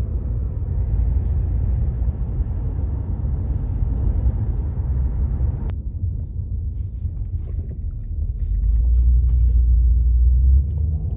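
Steady low rumble of road and engine noise heard from inside a moving car. It gets heavier for a couple of seconds near the end.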